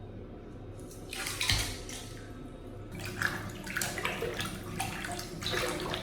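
Water running and splashing in uneven bursts, starting about a second in and again from about three seconds in, with a thud early in the first burst.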